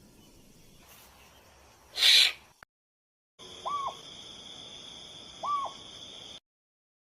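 An owl call: two short, clear hoots about two seconds apart over a steady high-pitched background, which cuts off abruptly. A brief loud rushing burst comes before it, about two seconds in.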